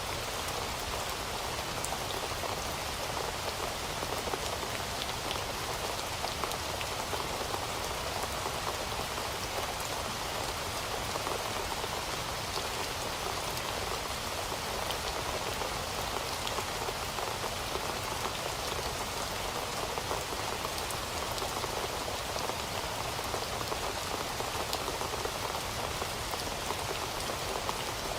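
Heavy rain falling steadily, a constant dense hiss of drops with fine individual drop ticks, unchanging throughout.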